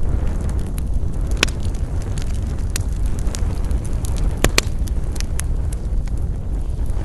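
Wood campfire burning, crackling with scattered sharp pops over a low steady rumble. The loudest pops come as a close pair about four and a half seconds in.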